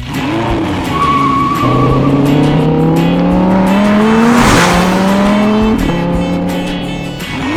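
Cartoon vehicle engine sound effect revving up, its pitch climbing steadily for about three seconds, dropping, then climbing again before settling, over background music.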